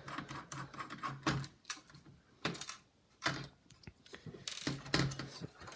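Irregular small clicks and taps of plastic laptop casing parts being pried loose and handled with small tools.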